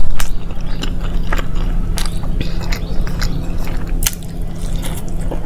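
Close-miked eating: a person chewing a mouthful of paratha and dal with wet smacking and clicking mouth sounds, and a crisper bite about four seconds in as shredded radish salad goes in.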